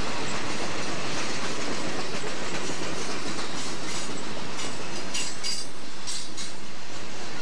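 Southern Pacific freight train's boxcars and lumber-loaded flatcars rolling past close by: a steady rumble of steel wheels on rail. A run of sharp, high clicks and squeaks from the wheels comes through the middle.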